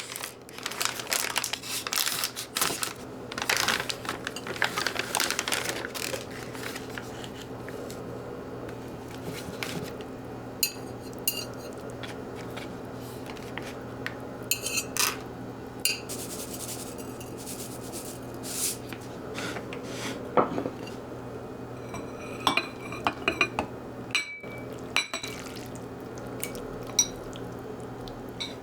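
Dishes and cutlery clattering and clinking: a busy run of handling over the first six seconds or so, then scattered light taps and clinks, over a steady low hum.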